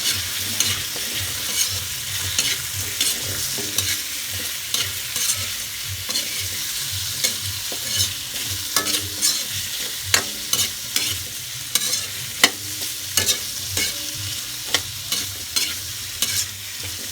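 Carrots and potatoes sizzling as they fry in oil in a pan, with a spatula scraping and clicking against the pan as they are stirred. The clicks come more often and sharper from about halfway through.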